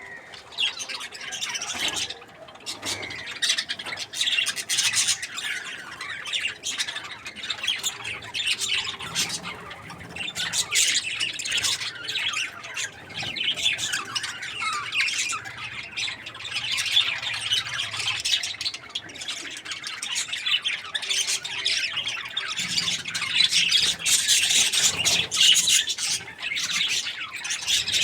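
Budgerigars chirping and chattering continuously, a busy stream of short squawks and warbles.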